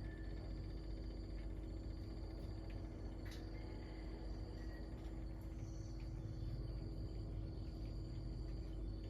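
Insects trilling in a continuous high, thin drone that drops out briefly now and then, over a faint steady low hum.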